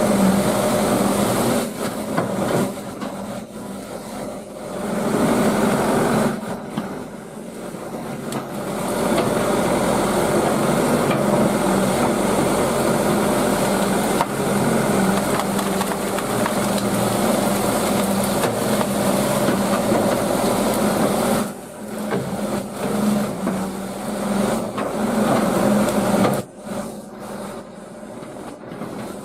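Hydraulic excavator's diesel engine working under changing load, dropping back several times before rising again, with knocking and scraping as the machine tears through brush and wood.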